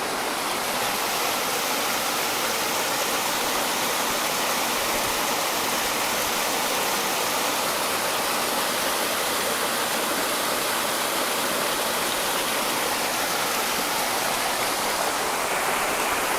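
Heavy water rushing steadily out of a reservoir drain, a constant even roar of fast flow.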